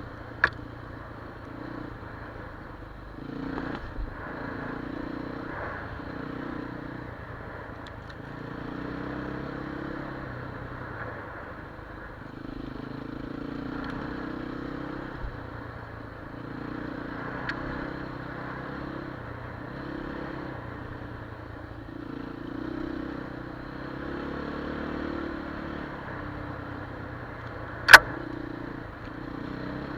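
Enduro motorcycle engine running, its revs rising and falling every few seconds. A small sharp click comes near the start, and a single loud sharp knock near the end.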